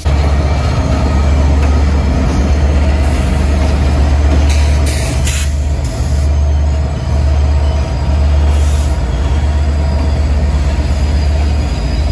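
Train running: a steady low rumble with rail noise, broken by a few short hissing bursts about five seconds in.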